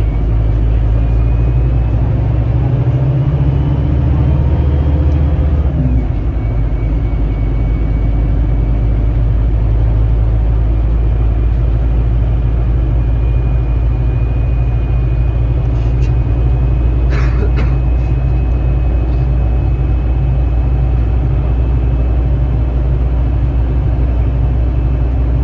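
Scania K310IB bus engine under way, its note climbing for the first few seconds and then dropping suddenly about six seconds in, as on a gear change by the Opticruise automated gearbox, before running on steadily. A few brief clicks or rattles come about two-thirds of the way through.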